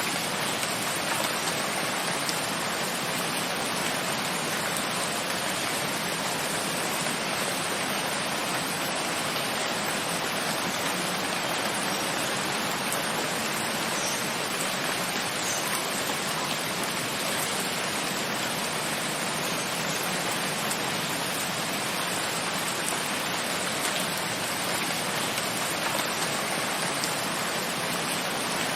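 Steady heavy rain: a dense, even hiss of falling rain with faint scattered drop ticks.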